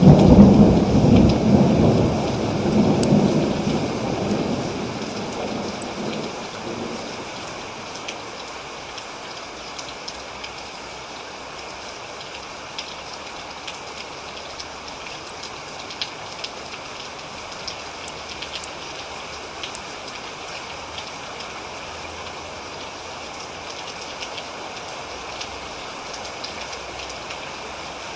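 Thunderstorm: a loud roll of thunder in the first few seconds that fades out by about six seconds in, then steady rain with the sharp ticks of single drops.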